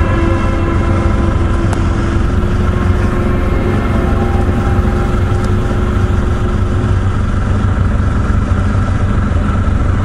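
Can-Am Spyder three-wheeled motorcycle's engine running steadily at low revs.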